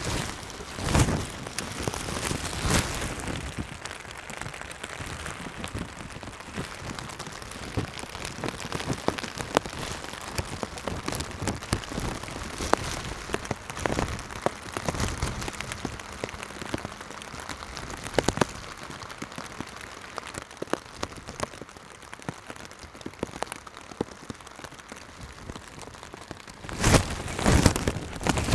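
Steady rain pattering on the water and on a rain poncho, with many small drop ticks and a few louder rustles near the start and near the end.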